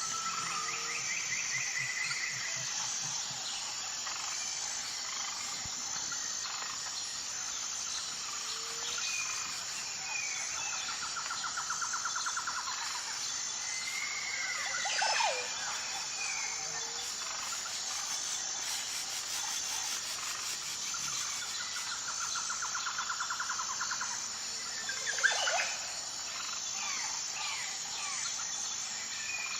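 Several wild birds calling and singing over a steady high-pitched insect chorus. The birdsong includes two rapid trills and two louder calls that sweep down steeply in pitch, one about halfway through and one near the end.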